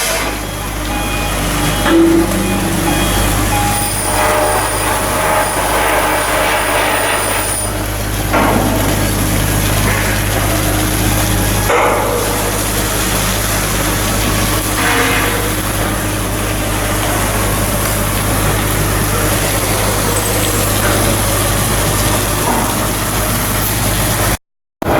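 Shipyard work noise: heavy machinery running with a steady low hum, with occasional brief louder bursts of noise over it.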